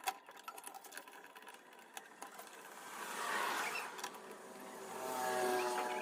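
Handling noise from a Yamaha F310 acoustic guitar: scattered light clicks and taps, then two soft swells of rubbing sound with a few faint steady tones, about three and five seconds in.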